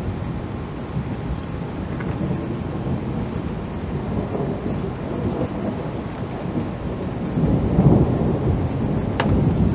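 Thunder rumbling continuously in a thunderstorm, swelling louder about three-quarters of the way in, with a sharp crack near the end.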